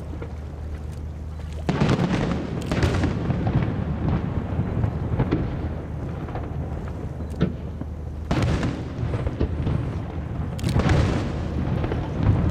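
Aerial fireworks shells bursting one after another: sharp bangs in clusters about two seconds in, around eight seconds and near the end, over a continuous low rumble of booms.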